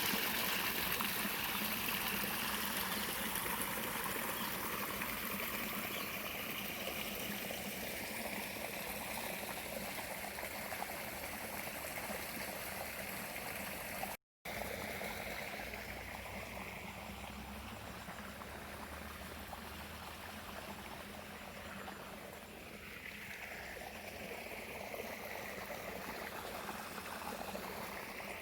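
Flowing water of a stream, a steady rushing trickle, broken once by a split-second gap about halfway through.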